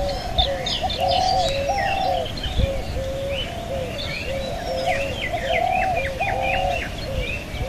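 Doves cooing in short, repeated phrases, with small birds chirping and twittering higher up. A low rumble sits underneath.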